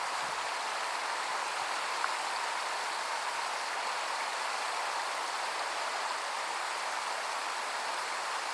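Steady rush of flowing water, an even hiss-like noise without pauses, with one faint click about two seconds in.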